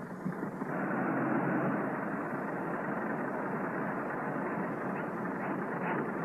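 Engine of an early open touring car running steadily as it drives over a dirt track, heard as a dense, muffled noise on an old film soundtrack. It swells about a second in.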